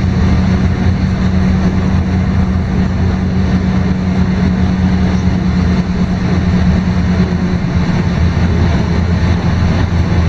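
LiAZ-5292.22 low-floor city bus running at a steady pace, heard from inside the passenger cabin: a constant diesel engine drone with road and body rumble.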